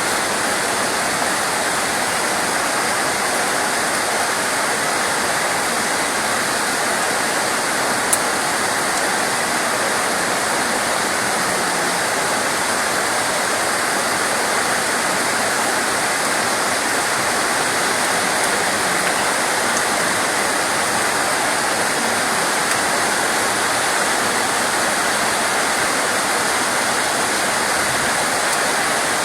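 Steady, dense rain noise, an even hiss with no let-up. A single sharp click about eight seconds in.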